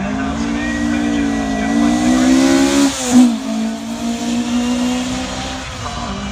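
Rally car engine pulling hard, its pitch climbing steadily for about three seconds, then dropping suddenly with a brief loud burst, before running on at a steady lower pitch.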